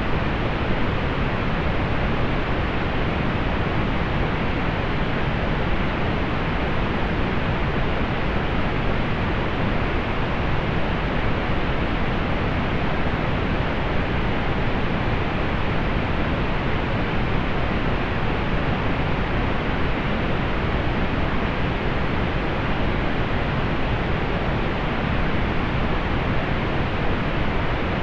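Steady pink noise: an even, unchanging hiss with its weight in the low end and the highs softened.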